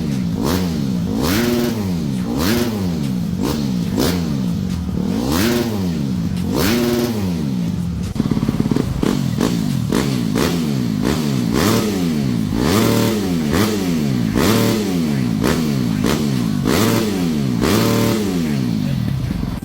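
Dirt bike engine revved over and over in short throttle blips, each a quick rise and fall in pitch, about one every second and a half. About eight seconds in the sound changes to a fuller, quicker run of revs, roughly one a second.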